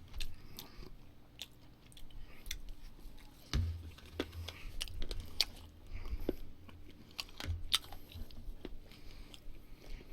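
Close-up chewing and biting of wood-fired barbecued meat, with scattered wet mouth clicks and a few soft low thumps.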